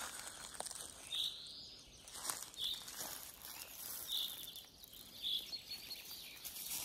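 A songbird repeating a short, high call about every second and a half, over faint forest background noise.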